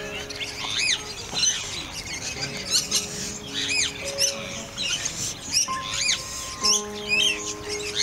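Many birds chirping in short, quick rising-and-falling chirps, over background music with long held notes.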